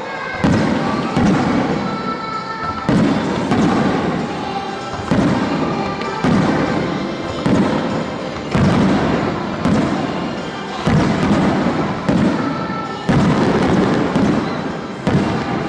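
Fireworks shells bursting in quick succession, a dozen or so sudden booms with rumbling tails about a second apart, over music played for the synchronised show.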